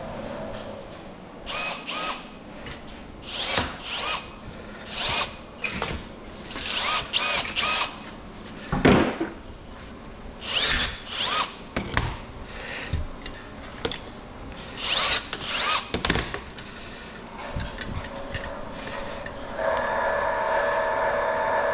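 A handheld power tool run in many short bursts, with ringing metallic clinks, on scrap wire. Near the end a steady motor hum starts up.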